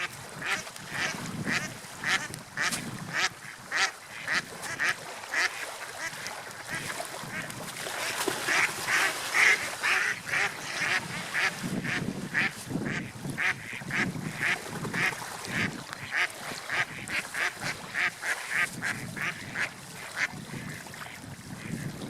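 Gulls calling in a quick run of short calls, about two or three a second, loudest and busiest about halfway through, over a steady noisy wash.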